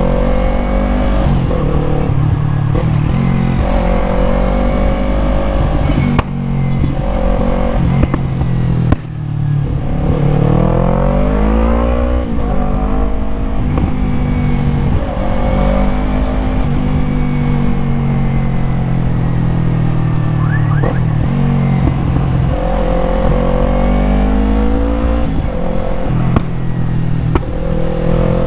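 Yamaha MT-03 motorcycle engine under riding load, its pitch rising and falling with the throttle. Revs dip briefly about six and nine seconds in, as at gear changes, then climb steadily before settling into a cruise.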